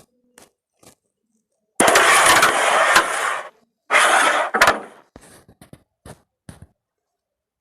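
Carrom striker flicked across the board: a sharp click as it strikes the coins, then a rasping hiss of pieces sliding over the board. A second shot follows about two seconds later, and light clicks come after as pieces tap and settle.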